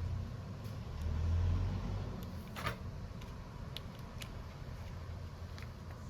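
Scattered small clicks and taps of parts and tools being handled during a phone screen repair, one sharper click about two and a half seconds in, over a low rumble that swells a second in.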